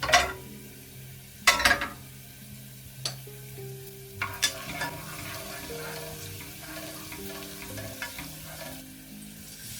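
A utensil stirring and scraping in a frying pan over a light sizzle, with several sharp clatters against the pan. The loudest come just after the start and about a second and a half in.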